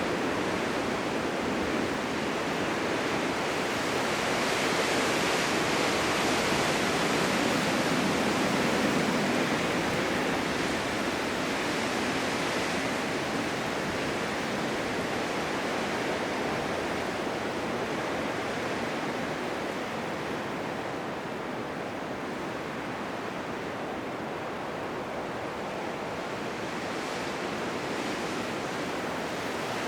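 Blizzard wind: a steady rushing noise that swells a few seconds in and then slowly eases.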